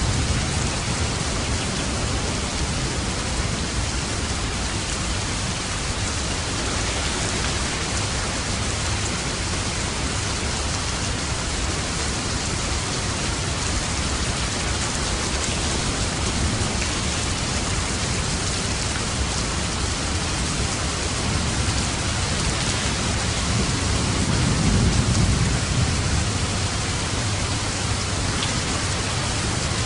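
Steady heavy rain falling, with a low roll of thunder swelling and fading about three-quarters of the way through.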